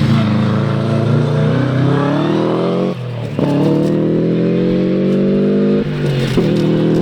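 Four-wheel-drive rally car engine accelerating hard under full throttle, pitch climbing steadily and dropping sharply at two upshifts, about three seconds and six seconds in.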